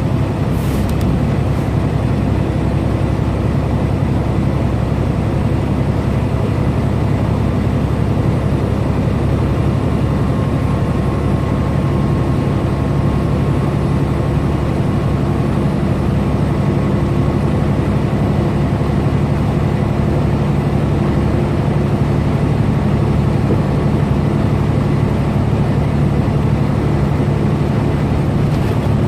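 Semi truck's diesel engine and road noise heard from inside the cab, a steady low drone at highway cruising speed. A brief click comes just under a second in.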